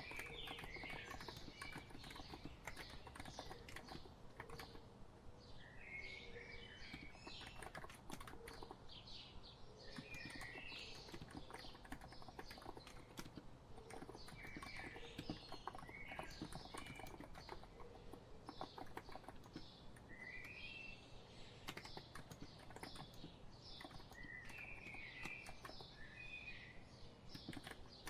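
Steady typing on a COX Empress electrostatic capacitive keyboard, a continuous soft patter of keystrokes. Birds chirp in short phrases every few seconds behind it.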